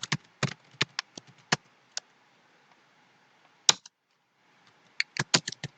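Computer keyboard typing in scattered keystrokes: several separate keys in the first two seconds, one louder click near the middle, then a quick run of keystrokes near the end.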